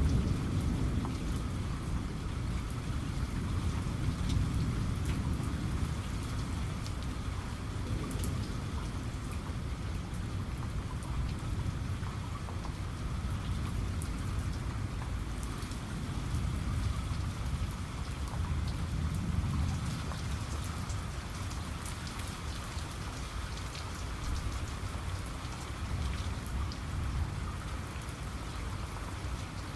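Steady heavy rain falling on a surface, with the fine ticks of individual drops, under a low rumble of distant thunder that swells now and then.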